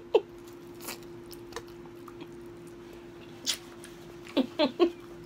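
Quiet eating mouth sounds with small clicks, then a quick run of three short, low burps about four and a half seconds in, over a steady hum.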